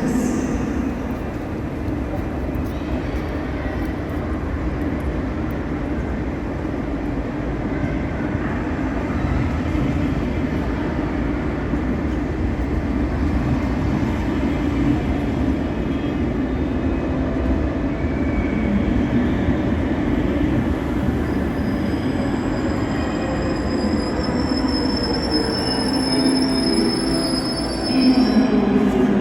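Train running slowly along a station platform: a steady rumble, with a thin high-pitched squeal from the wheels for several seconds near the end.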